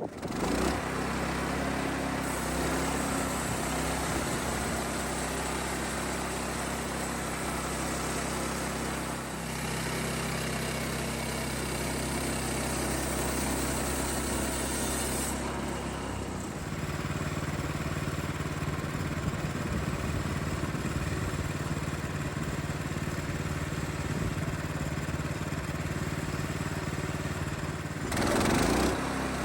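Woodland Mills portable band sawmill's gas engine running steadily; its note shifts about a third of the way in and again about halfway, with a brief louder surge near the end.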